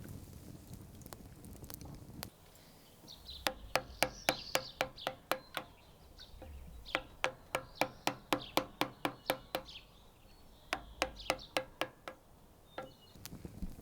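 Quick knife chops on a wooden cutting board, about four or five a second, in three runs. Birds are chirping in the background.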